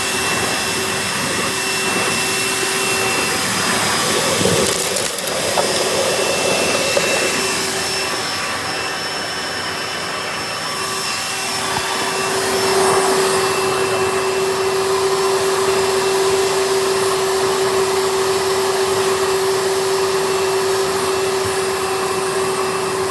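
Hoover Elite upright vacuum cleaner running with its hose in use: a steady motor hum over rushing suction air, the airflow changing a few times as the hose is worked, dipping somewhat about a third of the way in and running stronger and steadier from about halfway.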